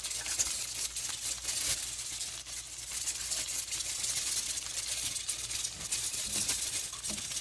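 Hilsa fish frying in hot oil in a pan, a steady sizzle with fine irregular crackles.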